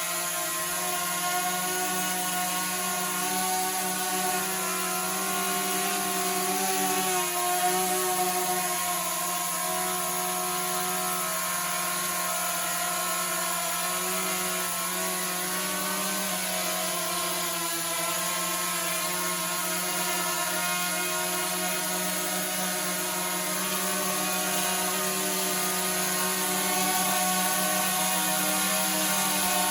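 DJI Mavic Mini drone flying on Parrot Anafi propellers: a steady buzzing whine from its motors and props, shifting slightly in pitch now and then.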